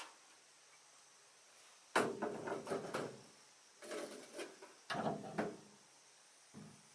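Three short bursts of clattering knocks and scrapes about a second apart, then a soft thud near the end, as of hard objects being handled and set down.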